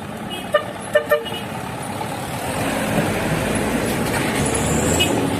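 Three short horn toots in quick succession about half a second to a second in, over the steady running of truck engines and traffic, which grows louder.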